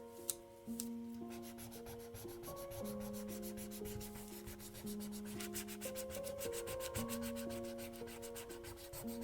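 Rapid back-and-forth rubbing on paper, about nine strokes a second, starting about a second in and stopping just before the end. Soft background music with held piano-like notes plays throughout.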